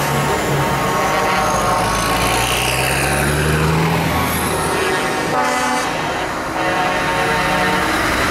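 Trucks in a convoy sounding their horns over the sound of their running engines. Several horn tones are held and overlap, and an engine note climbs slowly over a few seconds.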